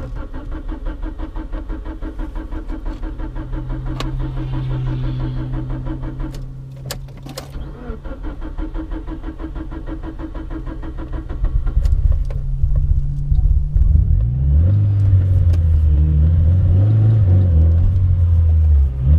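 Mitsubishi Lancer Evolution IX's engine running at low revs. About twelve seconds in it grows louder, with the revs rising and falling.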